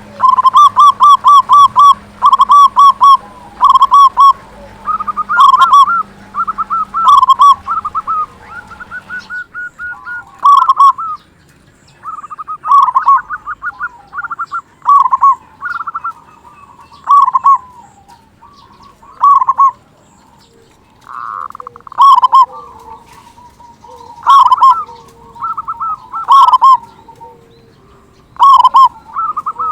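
Zebra dove (perkutut) cooing loudly: phrases of quick staccato coo notes, the first a rapid trill, repeating every second or two with short pauses between.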